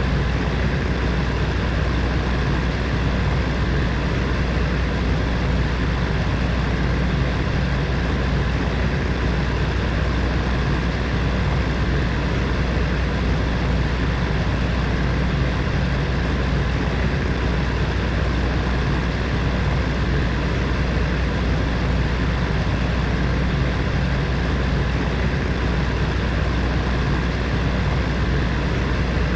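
Electric heater fan running steadily: a constant whooshing rush of air over a low hum.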